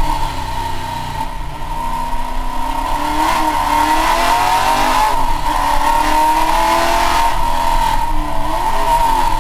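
Holden VK Commodore's engine driven hard, heard from inside the cabin, loud throughout, with the revs rising and falling as the car accelerates, shifts and slows for corners.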